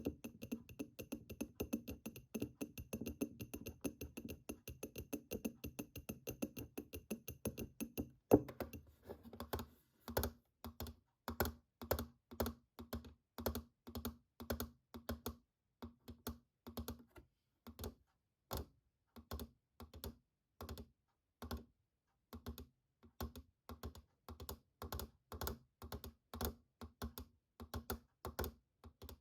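Fingertips tapping and clicking the plastic keys of a computer keyboard. For the first eight seconds or so the taps come fast and close together over a faint steady hum. Then there is one sharp loud click, and after it separate taps about two a second, each with a short hollow ring.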